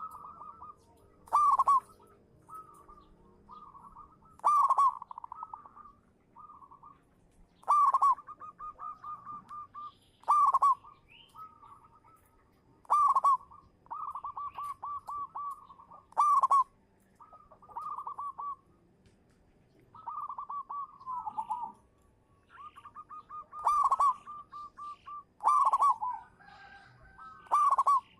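Zebra dove (perkutut) cooing song: loud, short coos every two to three seconds, with runs of soft, rapid repeated notes at about the same pitch between them.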